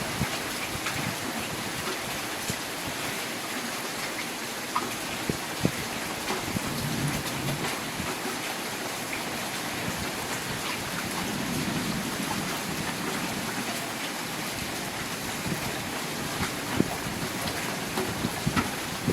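Steady rain during a thunderstorm, an even hiss with scattered sharp ticks of drops striking a surface.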